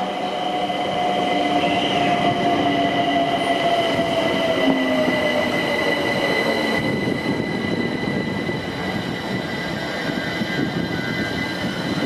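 A train running past at the platform. A tone slides down in pitch over the first six seconds, and steady high-pitched squealing tones carry on throughout.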